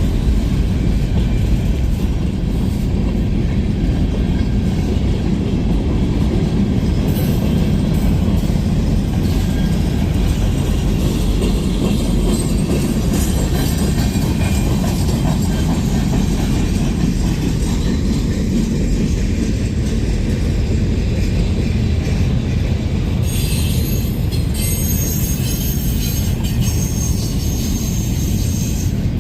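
Train rolling past on the rails with a steady low rumble of wheels and cars, joined by high-pitched wheel squeal for the last few seconds.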